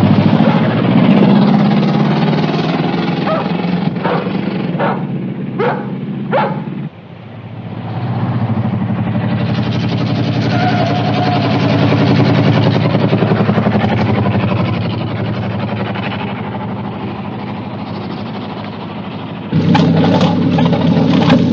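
Car engines running hard at speed in a chase, with a few short screeches, likely tyres, about four to six seconds in. The sound changes abruptly twice, at cuts.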